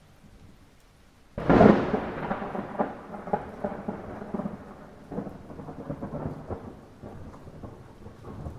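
A sudden thunderclap a little over a second in, rolling into crackling, rumbling thunder that fades away over several seconds, over a bed of light rain.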